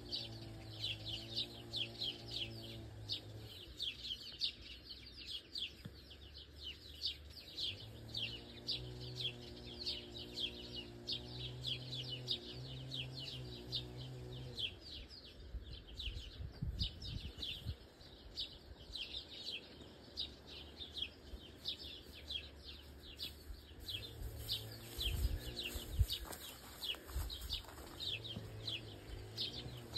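A dense, continuous chorus of small birds chirping, several chirps a second without a break. Low dull thumps come in around the middle and again near the end.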